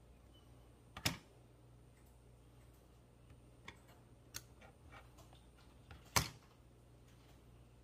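Two sharp metallic clicks from a pair of scissors, about a second in and again about five seconds later, with faint crackly ticks of steel wool being handled between them.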